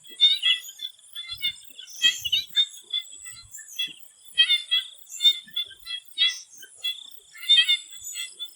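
Swamp frogs calling in short rapid pulsed bursts, repeating about once a second, over a steady faint high whine.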